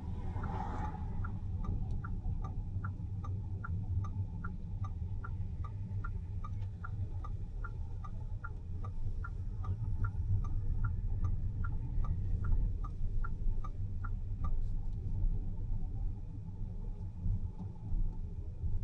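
A car's turn-signal indicator ticking evenly, about three ticks a second, over the low rumble of the car driving. The ticking stops a few seconds before the end.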